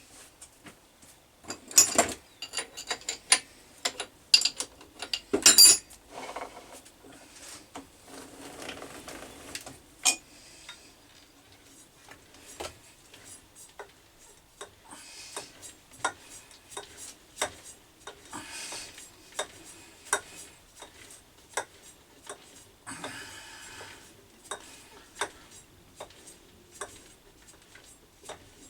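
Irregular metallic clicks, ticks and scraping as a threading die is worked by hand onto a brass spigot, cutting a 1/4-inch Whitworth thread. There are a few louder clanks about 2 and 5.5 seconds in.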